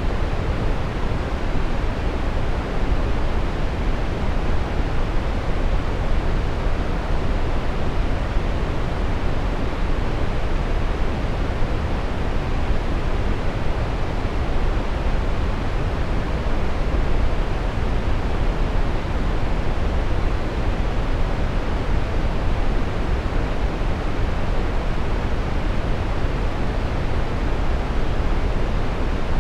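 Brown noise: a steady, unchanging deep rushing hiss, strongest in the low end and with little treble.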